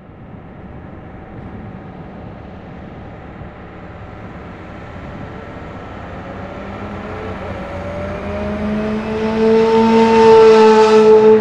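Car engine accelerating, its pitch rising slowly and the sound growing steadily louder until about ten seconds in.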